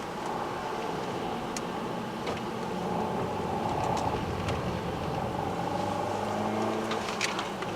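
Car engine running under a steady hiss of road and wind noise, its pitch shifting a little. A few sharp clicks sound near the end.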